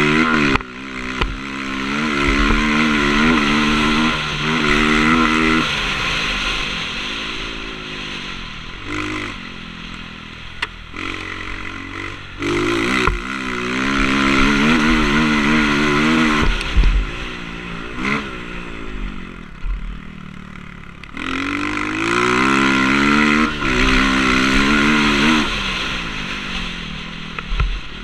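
Motocross bike engine, heard on board, revving up hard and falling off again and again as the throttle is opened and shut, with a few sharp knocks in between.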